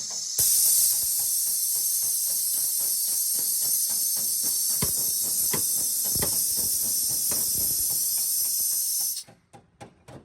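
Steady high hiss of air from a workshop air tool, with a few knocks under it, cutting off sharply about nine seconds in.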